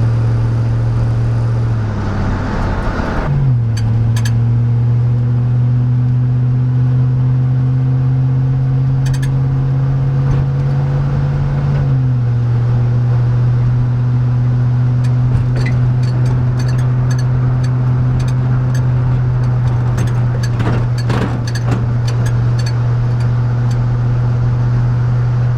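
A 5.3L LM7 V8 pulling under load, heard inside the truck cab through a chambered Cherry Bomb muffler as a deep, steady exhaust drone. The engine note dips and recovers about three seconds in, climbs slowly, then steps down about twelve seconds in, as at an automatic upshift. Light clicks are scattered over the drone.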